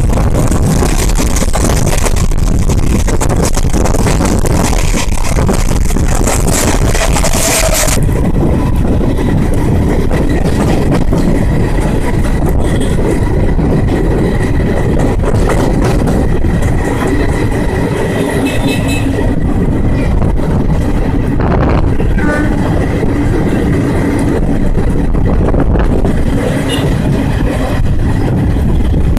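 Passenger train running on rails, heard from on board: a steady rumble of wheels and track. A loud hiss of rushing air and rail noise fills the first several seconds and drops away abruptly about eight seconds in, leaving the lower rumble.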